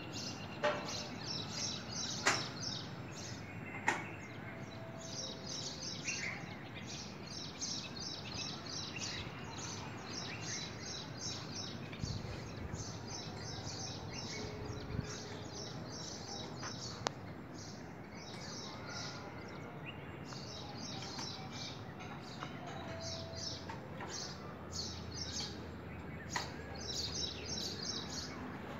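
Small birds chirping rapidly and continuously over a steady outdoor hiss, with a few sharp clicks in the first few seconds and once more in the middle.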